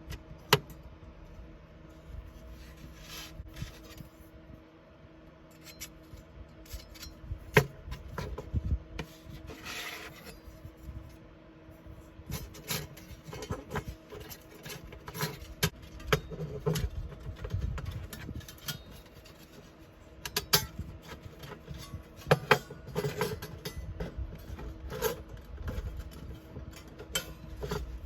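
Hands handling objects: irregular rubbing and scraping, with scattered sharp clicks and light clinks throughout. A faint steady hum runs underneath.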